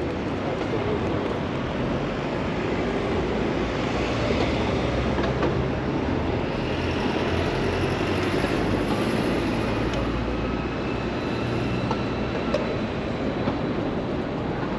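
Steady rumbling city traffic and road noise, with a few faint whines and small clicks.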